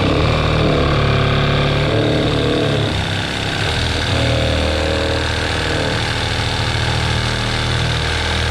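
A power tool's motor running steadily while cutting, its pitch shifting a few times under load.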